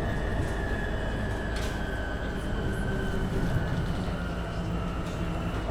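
Inside a MAN Lion's City NL253 Hybrid city bus under way: a steady low running rumble with a thin high whine from the hybrid electric drive that slides slowly lower in pitch, as when the bus eases off.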